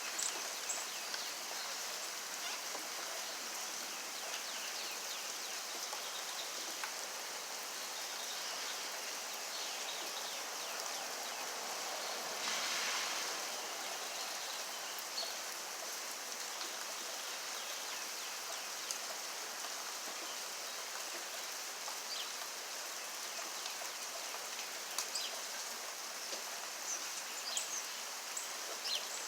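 Steady rain falling, an even hiss with scattered drops ticking sharply on nearby surfaces, swelling briefly louder about halfway through.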